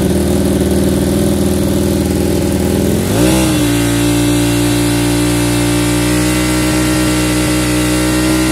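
An engine running at a steady speed; about three seconds in it speeds up, wavers briefly, then holds steady at the higher speed.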